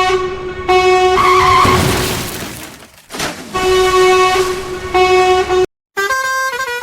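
Vehicle horn sound effect honking in several long, steady blasts. About a second in, a loud rushing noise swells and fades over the horn before the honking resumes.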